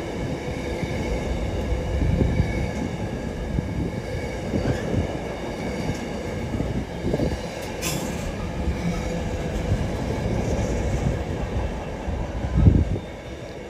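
A train running past with a steady rumble and a faint steady whine. There is a sharp click about eight seconds in and a louder thump near the end, after which the sound drops away.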